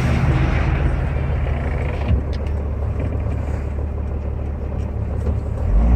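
Twelve-valve Cummins inline-six turbo diesel pulling under heavy load uphill while towing a skid steer, a steady low drone. It dips briefly about two seconds in and grows louder and deeper near the end.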